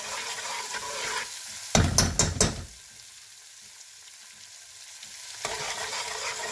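Onion paste frying in oil in an aluminium pressure cooker, sizzling as a metal spoon stirs and scrapes it. About two seconds in the spoon knocks sharply against the pot a few times. The sizzle then drops away while the stirring stops and comes back near the end.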